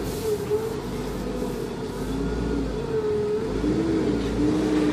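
Jeep engine running at low speed, heard from inside the cab, its note rising and falling gently as the throttle is worked.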